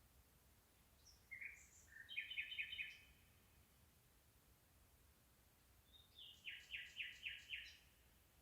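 A songbird singing two short phrases a few seconds apart, each ending in a quick run of about five repeated notes, over a faint steady hiss.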